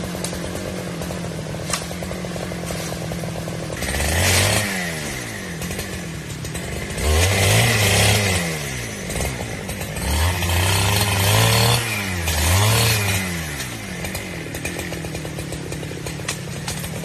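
Chainsaw engine running at a steady idle, then revved up four times in surges of one to two seconds, the pitch sweeping up and falling back to idle each time.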